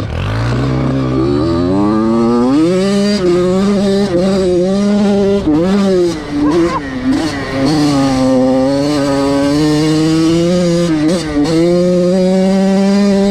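Small dirt bike engine revving hard, its pitch climbing over the first two seconds and then held high, rising and falling with the throttle, with brief let-offs about six and eleven seconds in. The rear wheel is spinning in mud with little traction.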